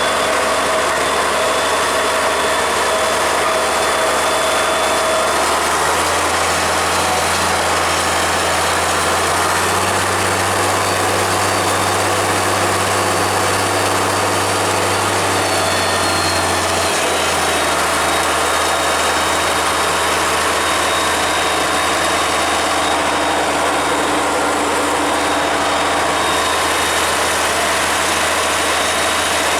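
Farmall 806 tractor engine running steadily at idle, its low note shifting slightly a couple of times.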